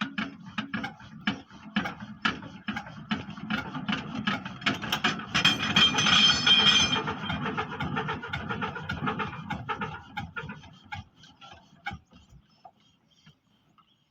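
Old Eicher tractor's diesel engine running with a rapid, even knocking beat. It grows loudest about five to seven seconds in, then fades, the knocks thinning out until they stop about twelve seconds in.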